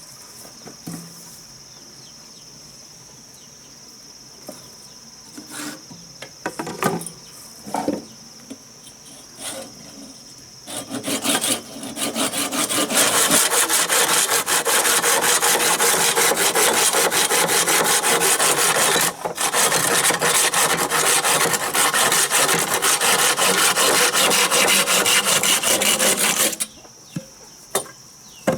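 Saw cutting through wood in rapid, even strokes, starting about a third of the way in, breaking off briefly in the middle and stopping near the end. Before the sawing, a few light knocks.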